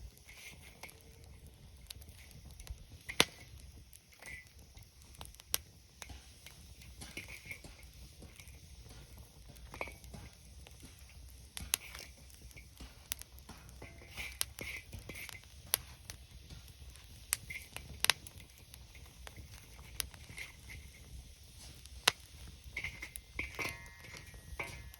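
Wood campfire crackling: irregular sharp pops and snaps of burning wood, a few every couple of seconds, over a low steady rumble.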